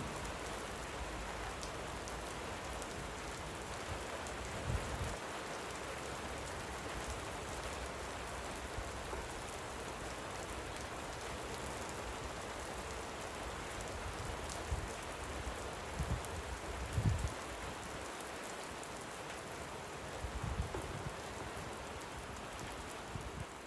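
Steady light rain falling, a continuous even hiss of drops. A few brief low thumps come through now and then, about five over the stretch.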